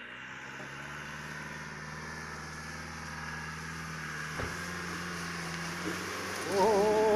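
Land Rover Discovery engine running steadily under load as it climbs a slope of wet leaves, with a single knock about four and a half seconds in. Near the end a loud, wavering shout rises over the engine.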